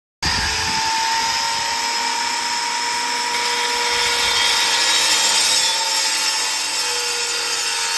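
Electric power tool running steadily under load, cutting into a plastered wall to open up a crack for repair. It starts abruptly just after the start and keeps an even, unbroken pitch throughout.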